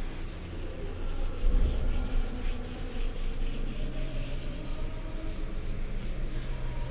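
Hand rubbing and wiping dust off the engine bay, a dry, irregular scraping rustle, with a louder low bump about a second and a half in.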